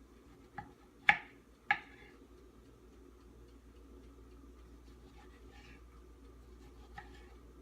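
Sharp clicks and taps of kitchen utensils during food preparation: three in quick succession about a second in, the middle one loudest, and a lighter one near the end.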